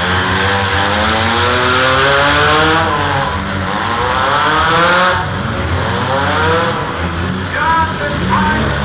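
Engines of compact demolition derby cars revving hard and overlapping, their pitch sweeping up and down again and again over a steady low rumble.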